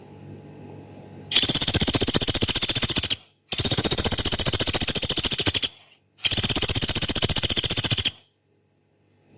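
Pelatuk beras woodpecker giving three long, harsh, very fast rattling trills, each about two seconds, with short pauses between.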